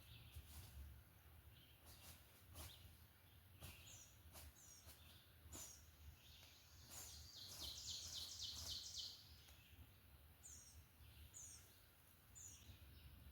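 Quiet spring woods with faint songbird calls: short high falling chirps every second or so, and a rapid buzzy trill about eight seconds in, over a low rumble and a few light clicks.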